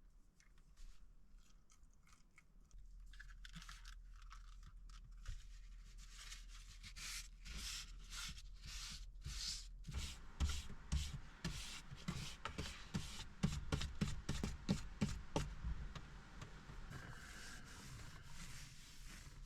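Footsteps crunching on loose ground, about two a second, growing heavier about halfway through.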